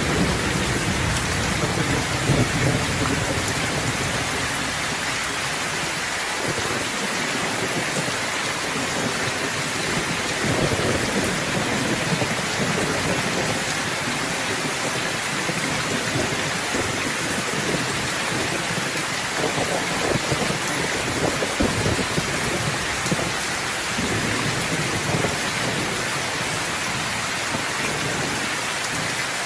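Steady rainfall pouring on surfaces, with a low rumble of thunder in the first several seconds that fades away.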